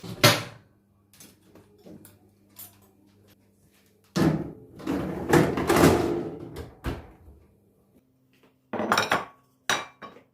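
Kitchen dishes and utensils clattering, with a longer scraping, rattling stretch in the middle and a few sharp knocks near the end, over a faint steady hum.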